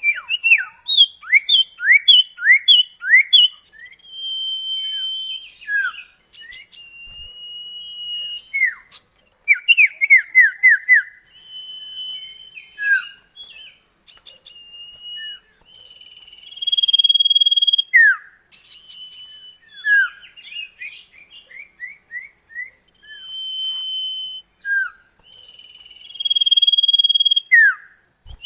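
Common iora (cipoh kacat) singing: quick series of down-slurred whistled notes, about two or three a second, alternating with long held clear whistles, over a thin steady high-pitched tone.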